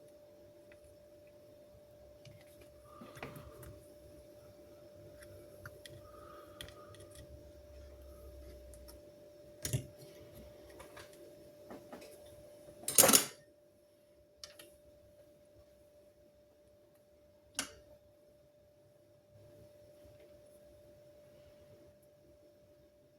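Scattered small clicks and knocks, the sharpest about ten and thirteen seconds in and another near eighteen seconds, over a faint steady hum.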